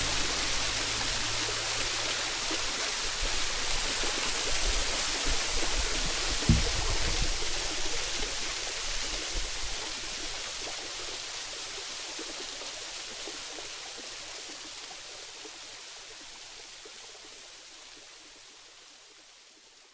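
A 50-ft waterfall rushing steadily, with one low thump about six and a half seconds in. The sound fades out gradually over the second half.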